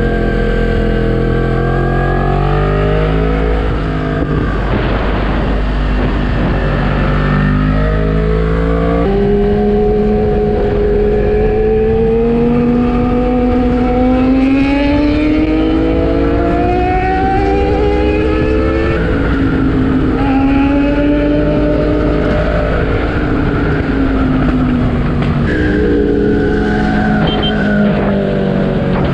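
Yamaha MT-10's crossplane inline-four engine pulling hard under a rider, its pitch climbing for several seconds at a time and dropping suddenly at each upshift, over a rush of wind noise.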